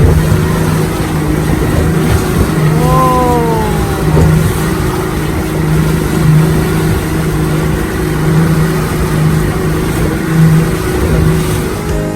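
Boat motor running steadily under way, with a constant rush of noise over it. About three seconds in, a short call rises and then falls in pitch above the motor.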